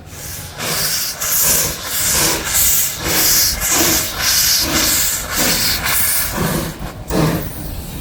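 Steam locomotive exhaust chuffing as the engine works away from a standstill: a steady series of loud, hissing chuffs, about three every two seconds, starting about half a second in.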